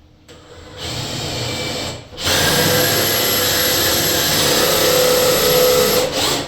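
Power drill boring a 2-1/8-inch deadbolt hole in a door with a sharp bit. It starts with a lighter run, dips briefly about two seconds in, then runs louder and steady for about four seconds and stops near the end.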